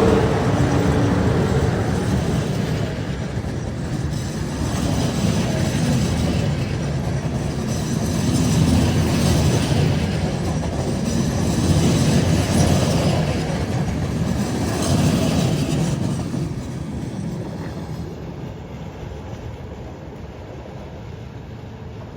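Train running past on the rails, its wheels clattering over the track with some wheel squeal. The sound swells and eases every few seconds as the cars go by, then fades away over the last few seconds.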